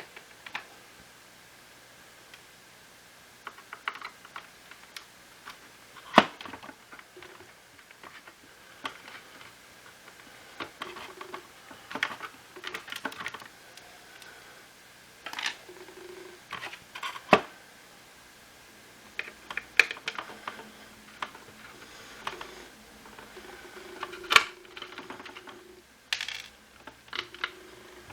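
Hard plastic parts of a Shark cordless stick vacuum being handled and taken apart: irregular clicks, taps and knocks, a few of them sharper than the rest.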